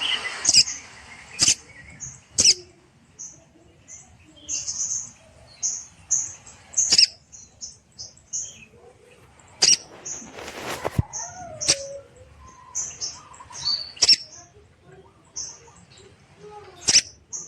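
Small cage bird chirping busily: a string of short, high notes with several sharp, louder clicks among them.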